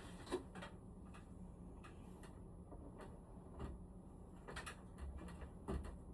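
Irregular light clicks and knocks, about a dozen over a few seconds, over a faint steady hum.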